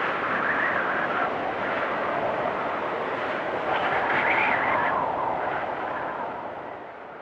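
Storm wind blowing with a wavering whistle, gusting up about four seconds in and then dying down near the end.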